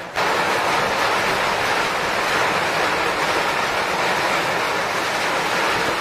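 Heavy rain pouring down in a storm, a steady hiss that cuts in suddenly at the start and cuts off suddenly at the end.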